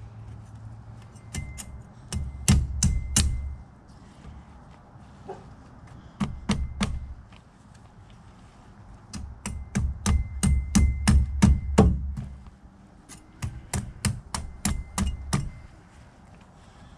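Butcher knife chopping through an alligator gar's hard, armoured scales, a series of sharp knocks coming in four bursts of rapid blows with short pauses between.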